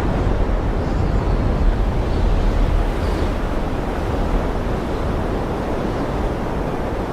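Steady wash of ocean surf and wind, with a deep low rumble underneath.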